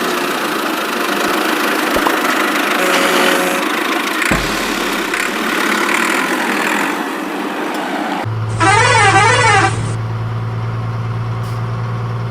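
Cartoon vehicle sound effects: a noisy rush of traffic-like engine sound, then, about eight seconds in, a loud warbling siren-like horn for about a second and a half over a steady low hum.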